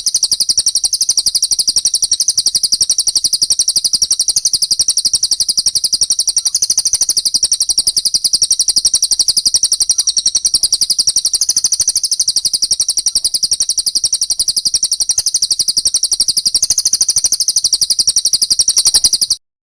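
Recorded songbird chirping used as training song for cage birds: a fast, unbroken run of very high chirps that cuts off suddenly near the end.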